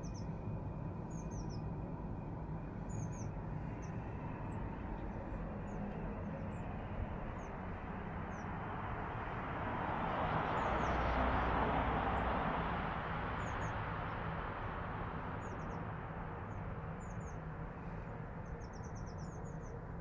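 Birds chirping in short, high calls scattered throughout, over a steady low outdoor background. A broad rushing noise swells for several seconds in the middle and then fades.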